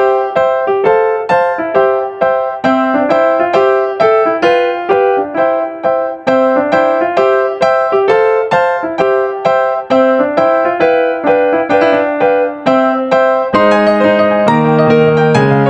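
Background piano music: a steady run of single struck notes in an even rhythm, with fuller chords coming in about two seconds before the end.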